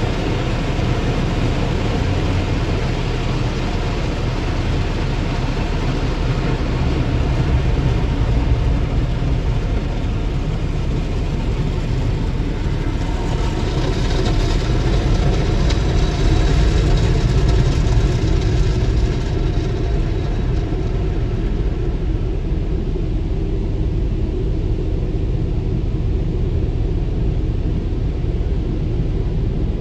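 Automatic car wash running over a Jeep Grand Cherokee: a steady low rumble with a hiss on top that eases off about twenty seconds in.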